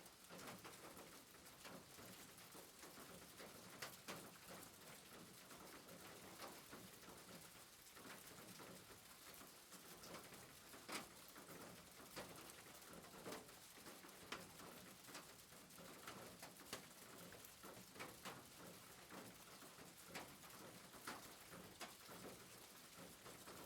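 Faint soft rain ambience: a steady, even hiss with scattered light taps at irregular intervals.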